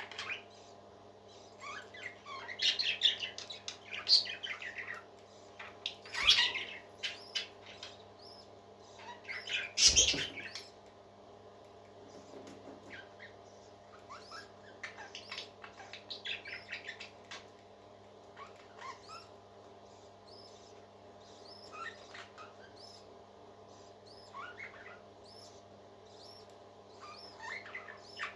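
Pet parakeets chirping and warbling, with louder bursts of calls about three, six and ten seconds in and softer chirping after, over a steady low hum.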